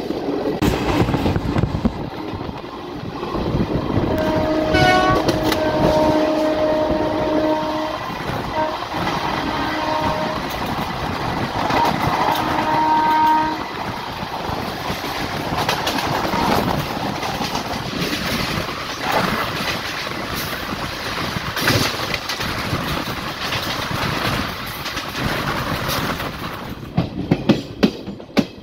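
A moving passenger train rumbling along the track, its wheels clattering over the rail joints. A train horn sounds in several blasts from about four seconds in until about thirteen seconds in.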